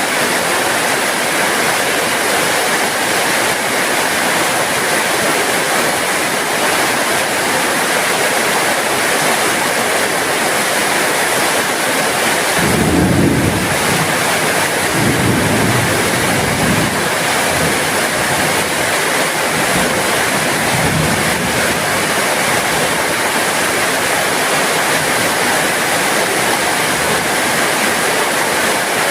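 Heavy rain falling steadily. A few low rumbles come in about halfway through.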